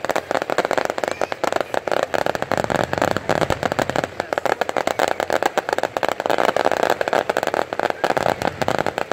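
Fireworks going off in a dense barrage: rapid crackling and popping of many bursts at once, with no gaps.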